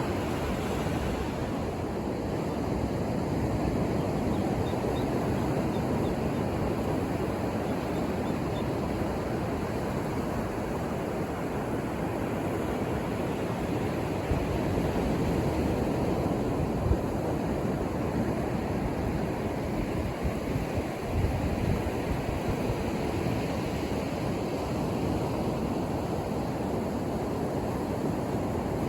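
Ocean surf washing onto a beach: a steady, continuous rush of breaking waves, swelling slightly now and then.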